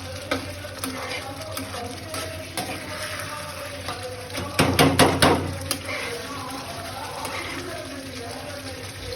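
Kitchen utensils and cookware clinking and knocking, with a quick run of several loud clanks about halfway through, over a steady low hum.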